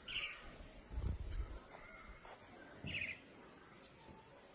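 Young munias giving two short, high chirps about three seconds apart, with a faint high note between them. There is also a low thump about a second in.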